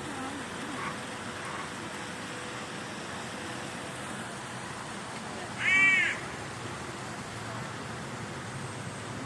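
A single loud animal call, caw-like, lasting about half a second a little past halfway through, over steady outdoor background noise.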